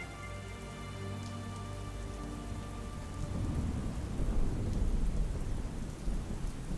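Steady rain with a low rumble of thunder that swells about halfway through and eases off near the end. Soft sustained ambient music notes fade out in the first couple of seconds.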